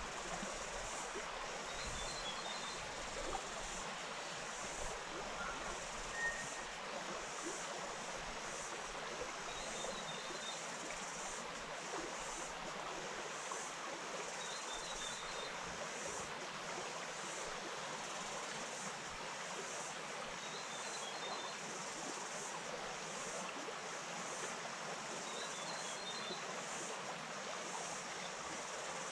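Bush stream flowing steadily over stones. A brief high chirp sounds about every five seconds above the water.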